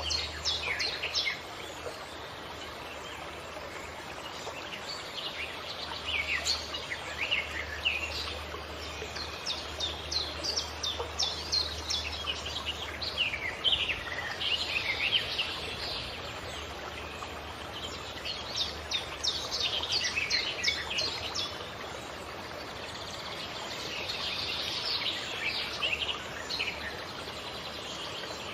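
Songbirds singing in bursts of quick, high, falling chirps, a new phrase every few seconds, over a steady soft hiss of outdoor background noise.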